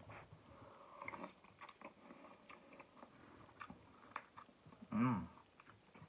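A person chewing a mouthful of YumYum instant ramen noodles, with small wet mouth clicks scattered throughout. About five seconds in comes a brief voiced sound from the eater, the loudest moment.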